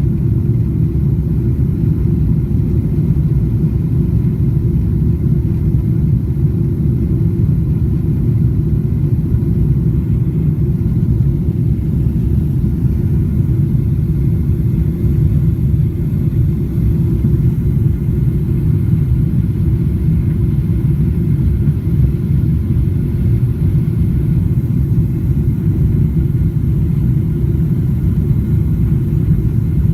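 Airliner cabin noise during the climb after takeoff: a loud, steady low rumble of the jet engines and the airflow over the fuselage, unchanging throughout.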